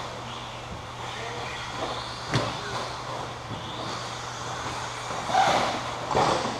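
Electric RC stadium trucks racing on the track: a steady mix of motor and tyre noise over a constant low hum, with a sharp knock about two seconds in and louder passes near the end.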